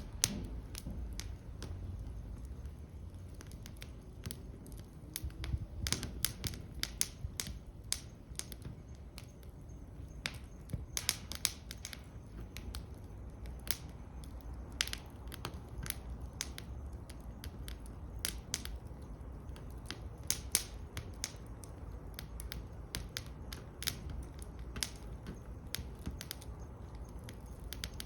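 Wood fire burning in a fire stand, crackling with irregular sharp pops over a low steady rumble.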